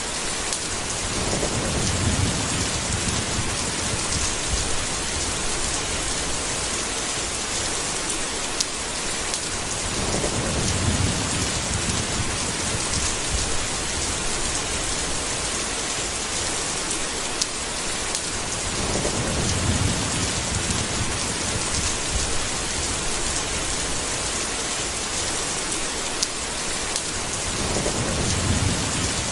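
Steady heavy rain with low rolls of thunder, four of them about eight or nine seconds apart.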